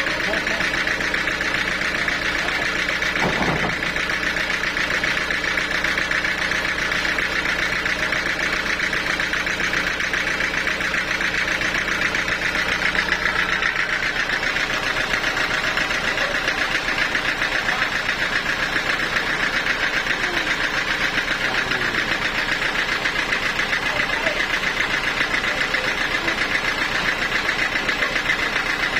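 Sawmill machinery running steadily with a dense, even mechanical sound; a low hum underneath drops out about halfway through.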